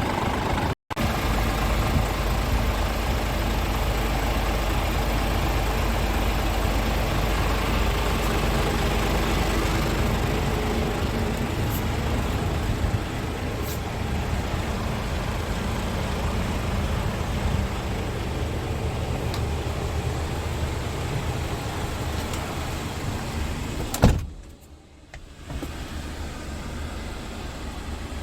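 Scania S410 tractor unit's 13-litre six-cylinder diesel idling steadily. About 24 seconds in there is one sharp knock, after which the running is quieter.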